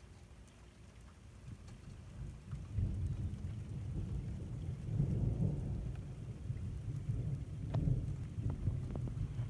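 Thunder rumbling, swelling from about a second and a half in and rolling on through a second peak, with rain falling and a few drops ticking close by.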